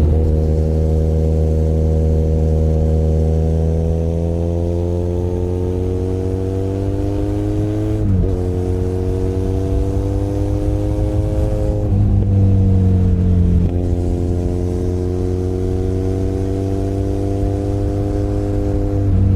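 Benelli Leoncino 500 Trail's parallel-twin engine under way. The engine note climbs slowly in pitch, drops sharply about eight seconds in, then climbs again, with further shifts in pitch near the middle. A steady low rumble runs underneath.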